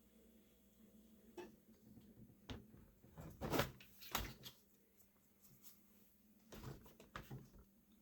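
A few light knocks and clatters of plastic parts being handled, loudest about three and a half seconds in, with a faint steady hum beneath.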